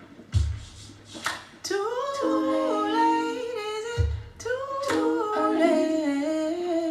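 Wordless singing: a voice humming a melody in long held notes that slide between pitches. A low thump sounds about half a second in and again about four seconds in.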